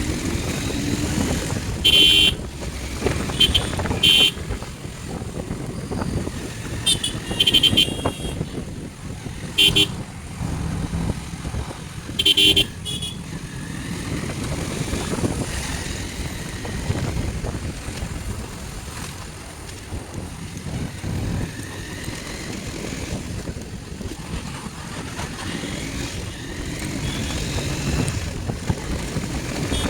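Motorcycle running on the road with steady engine and wind rumble. Short vehicle horn toots sound several times in the first thirteen seconds, louder than the engine.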